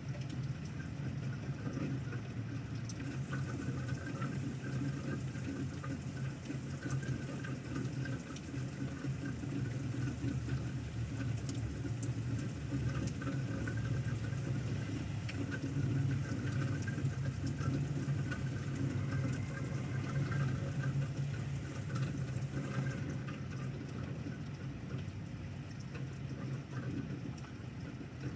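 Steady pouring rain from a thunderstorm, with water running and scattered sharp taps throughout.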